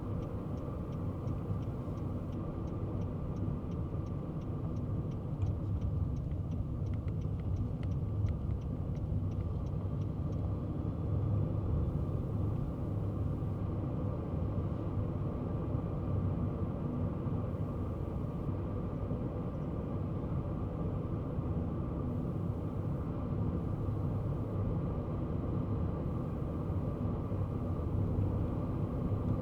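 Kei car driving along, its engine and tyre road noise making a steady low rumble. For about the first ten seconds a light, even ticking, roughly two or three ticks a second, sits over it, in the manner of a turn-signal indicator.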